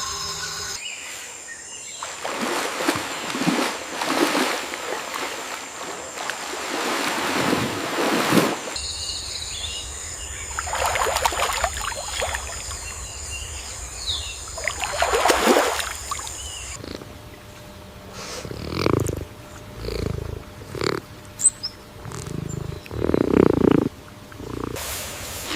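A large animal's rough, repeated growls or breaths: several long bursts a few seconds apart, then shorter ones coming closer together near the end.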